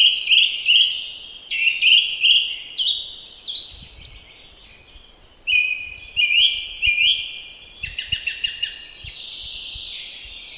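Songbirds singing in spring, one bird after another giving short phrases of quick, rising high notes, with brief pauses between phrases.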